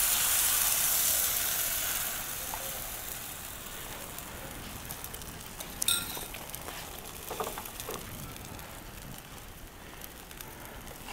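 Beaten egg sizzling as it hits a hot frying pan of fried bacon and vegetables. The hiss is loud at first and fades over the first few seconds as the egg settles, with one sharp click about six seconds in.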